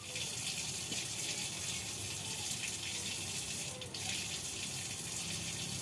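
Water running steadily from a tap, with a brief break about four seconds in.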